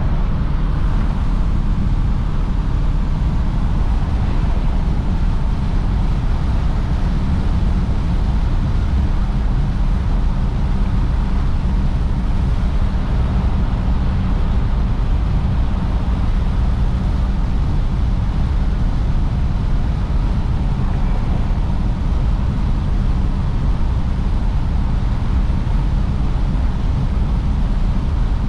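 1953 Oldsmobile Super 88 cruising at a steady speed: a constant low rumble of its V8 engine mixed with road and wind noise.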